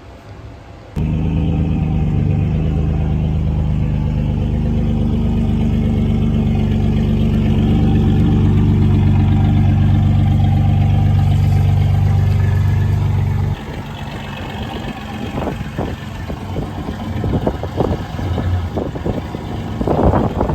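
An engine running steadily, starting abruptly about a second in and cutting off abruptly past the middle, followed by wind buffeting the microphone and irregular knocks and rattles.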